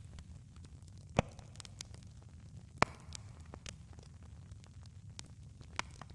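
Campfire crackling over a steady low rumble, with scattered small pops and two sharp louder pops about a second and almost three seconds in.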